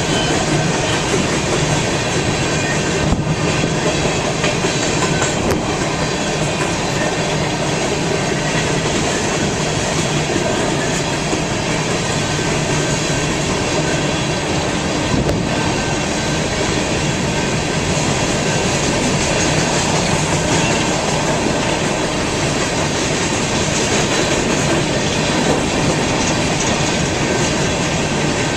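Railroad cars of a BNSF train rolling past steadily, the wheels making a continuous loud rumble and rail noise, with a few faint clicks along the way.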